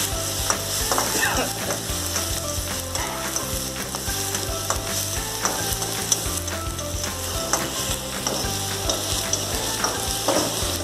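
Chopped onions and green chillies sizzling in hot oil in a kadai, the onion base of a chicken gravy being fried. A spatula stirs them steadily, scraping and clicking against the pan over and over.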